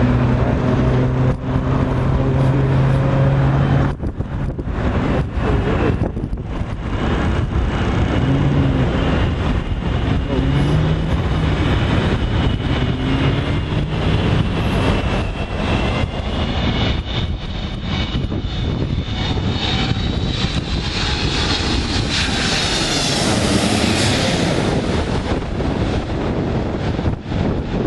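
Boeing 777-200ER's twin Pratt & Whitney PW4090 turbofans on landing approach, passing overhead: a loud jet rumble with a whine that rises in pitch and grows, peaking about 23 seconds in, then falls away. A low steady hum sounds in the first four seconds.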